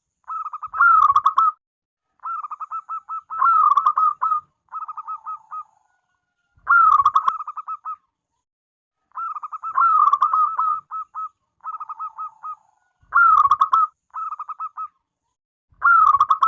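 Zebra dove (perkutut) cooing: repeated phrases of rapid, stuttering staccato notes, each a second or two long, separated by short pauses.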